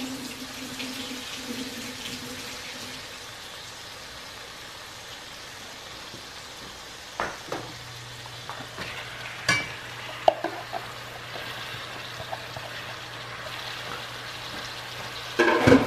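Onions, tomatoes and sweet peppers sizzling gently in oil in a frying pan. A few sharp clinks and knocks come between about seven and ten seconds in, and a low steady hum joins about seven seconds in.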